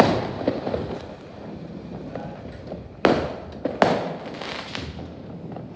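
Fireworks exploding: a loud bang at the start and two more about three and four seconds in, with smaller pops between, each bang trailing off in a short echo.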